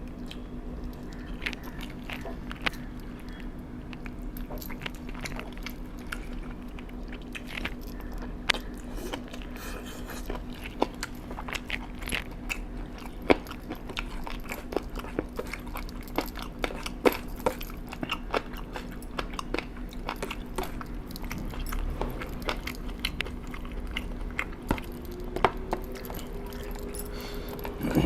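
A person chewing and biting food close to the microphone, with many short crunchy clicks scattered through, over a steady low hum.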